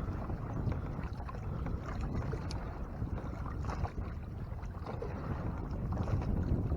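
Water washing against a sailing kayak's hull while under way, with low wind rumble on the microphone and a few faint clicks.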